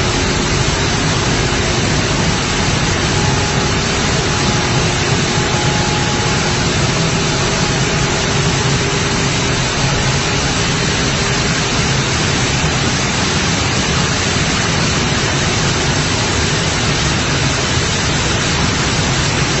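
Maize flour milling machinery running: a loud, steady rushing noise with a faint even hum underneath.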